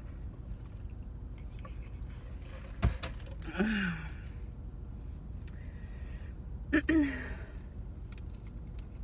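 A woman's two short wordless vocal sounds, each falling in pitch like a sigh or murmur, about a third and three quarters of the way through, each just after a sharp click, over a steady low hum inside the car.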